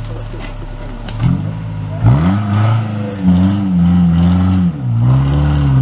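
Off-road 4x4 engine running steadily, then revved hard from about two seconds in, its pitch rising and falling as the throttle is worked, with a short drop near the end before it picks up again.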